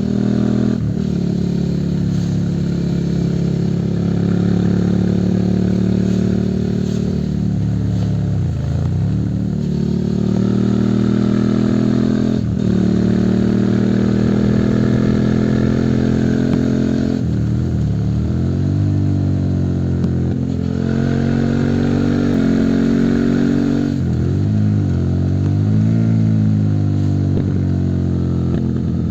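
Suzuki SV650's V-twin engine under way, its revs climbing steadily and then dropping sharply several times as it changes gear or backs off, before pulling up again.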